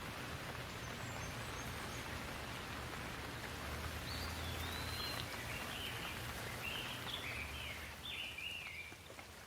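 Steady rain falling, with a bird calling a run of short, falling chirps from about four seconds in.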